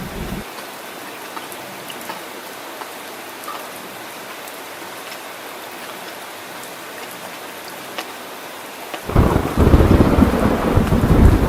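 Steady rain hiss with thunder. A low thunder rumble cuts off about half a second in, and a loud deep rumble of thunder breaks in suddenly about nine seconds in and runs on.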